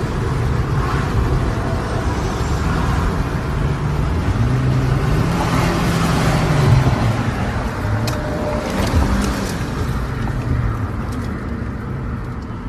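Car engine running with road noise; about halfway through, the engine note rises and then falls again. A few faint clicks come later on.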